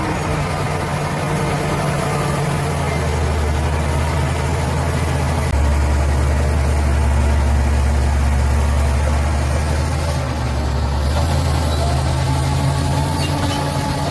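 Bulldozer's diesel engine running steadily, with a louder, deeper drone from about five to ten seconds in.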